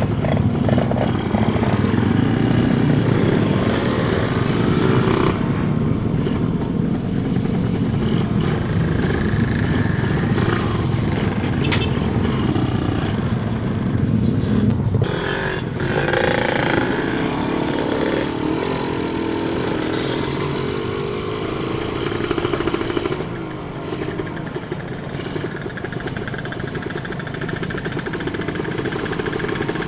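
Kawasaki Ninja SSR 150's two-stroke single-cylinder engine running under way, with the engine note easing off sharply about halfway through and running softer toward the end.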